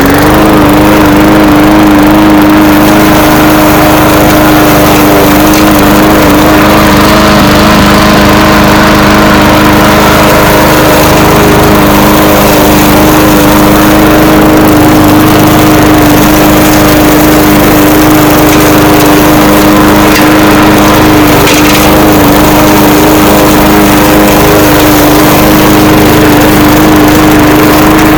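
Briggs & Stratton single-cylinder engine on a push lawnmower running loud and steady at a constant speed, just after starting. Its cleaned plastic carburetor is keeping it running.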